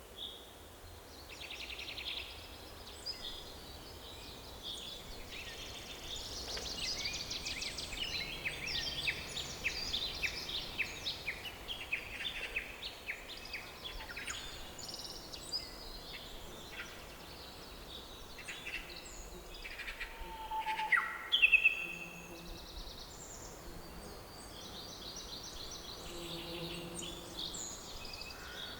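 Several songbirds singing together in a forest, overlapping chirps and quick trills, with a louder cluster of calls a little past two-thirds through.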